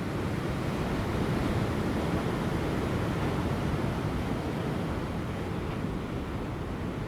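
Ocean surf breaking on rocks as a continuous deep wash, swelling slightly and easing, with light wind on the microphone.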